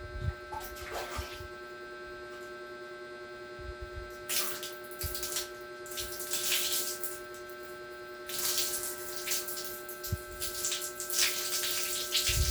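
Water running and splashing in spurts as hair is wetted, over a steady electrical hum.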